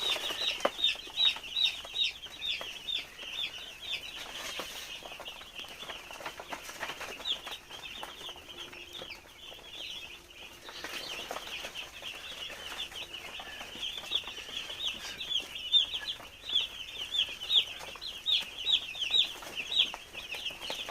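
A flock of two-day-old broiler chicks peeping: many short, high, downward-sliding cheeps overlapping continuously, thinning a little in the middle.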